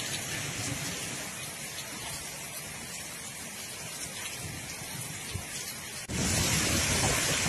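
Rain falling on a wet paved street, a steady even hiss. About six seconds in it switches abruptly to a louder, heavier downpour.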